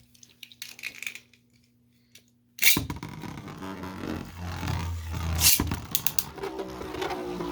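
Faint clicks of Beyblades being fitted to their launchers, then about two and a half seconds in two Beyblade tops are launched into a plastic stadium and spin against each other, with sharp knocks as they collide, several near the middle and one near the end.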